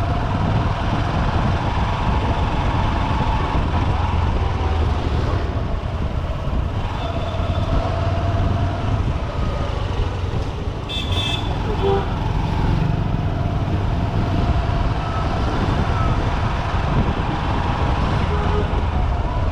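Honda SP125's 124 cc single-cylinder engine running under way in dense city traffic, with a steady low rumble of engine and road noise. Other vehicles' horns toot now and then, with a sharper, higher honk a little past the middle.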